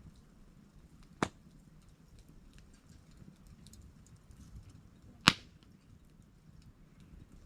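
Wood campfire burning with faint crackling and two sharp, loud pops from the burning wood, about a second in and again about four seconds later.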